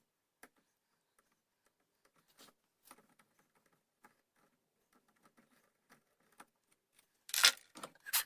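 Small metal lock parts handled on a workbench: scattered faint clicks and taps, then a short louder clatter of knocks about seven seconds in and another knock just before the end.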